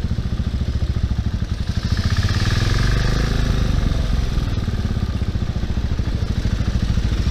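Bristol Classic 400i motorcycle engine running under way with a steady pulsing beat. It swells louder for a couple of seconds about two seconds in, then settles back.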